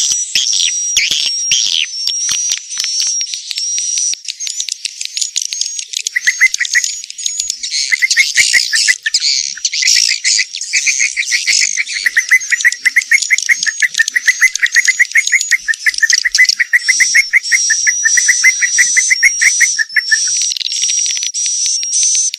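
Swiftlet calls used as a lure for swiftlet-nest farming: dense high twittering chirps. A fast, rattling trill joins in about a quarter of the way through and runs until near the end.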